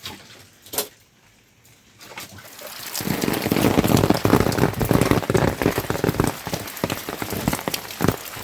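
Heavy rain striking a surface close to the microphone, many dense drops. It comes in about two seconds in and is at full strength a second later, after a single click near the start.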